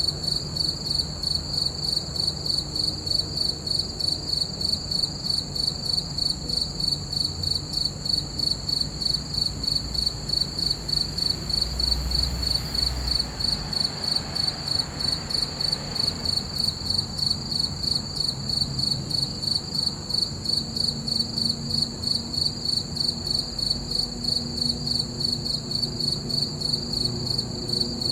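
Crickets chirping: a steady high-pitched trill pulsing in an even, rapid rhythm.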